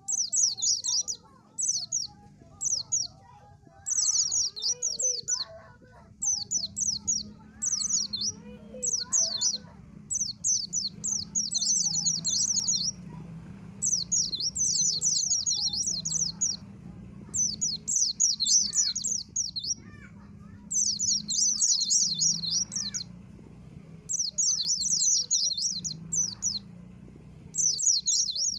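White-eye (pleci) singing: rapid, high twittering phrases of about a second each, repeated with short pauses, over a low steady hum.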